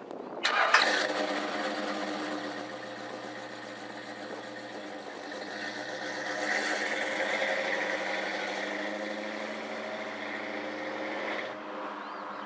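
1962 Jeep M170's four-cylinder engine running steadily at idle, starting abruptly about half a second in, getting a little louder in the middle, and cutting off sharply near the end.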